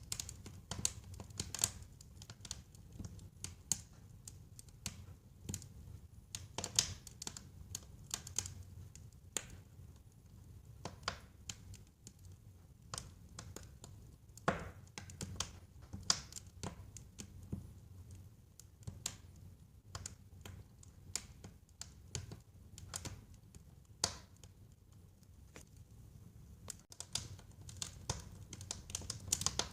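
Wood fire burning in a fireplace, crackling with irregular sharp pops over a low rumble of the flames.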